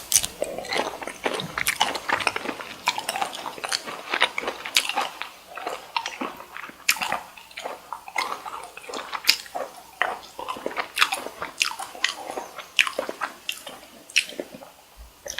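Close-miked biting and chewing of cocktail shrimp: a dense, irregular run of sharp mouth clicks, with a loud bite right at the start.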